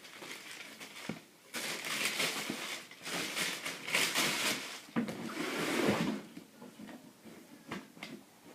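Paper rustling and crinkling in bursts as a pair of sneakers is handled and unwrapped, with a few soft knocks toward the end.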